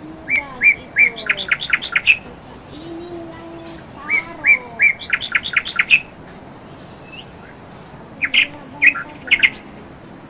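A bird singing: two phrases of quick, high repeated chirps that speed up toward the end of each phrase, then a few scattered chirps near the end.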